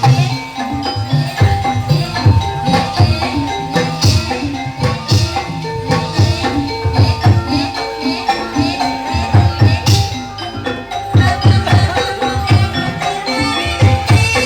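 Kuda lumping accompaniment music played live: hand drums beating a quick, driving rhythm over held ringing metallic tones, continuous and loud.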